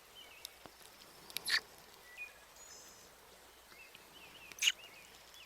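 Outdoor ambience of faint bird chirps, with two short, sharp mouth kiss sounds about one and a half and four and a half seconds in.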